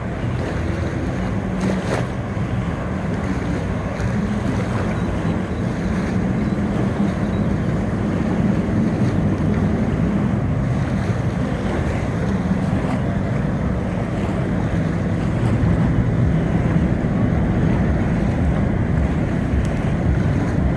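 Motorboat engines running with a low hum, over wind buffeting the microphone and waves washing at the inlet.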